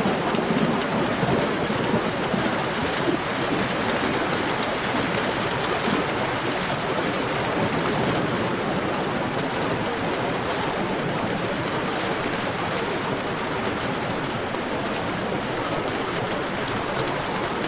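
Heavy rain falling steadily in an even hiss, with the tail of a thunder rumble dying away in the first couple of seconds.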